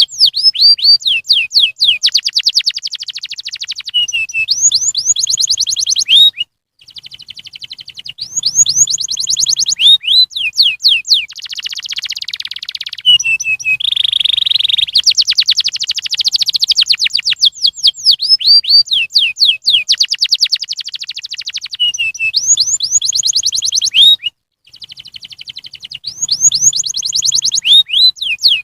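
Domestic canary singing long, loud phrases of rapid trills, each made of quickly repeated sweeping notes, with two short pauses between phrases.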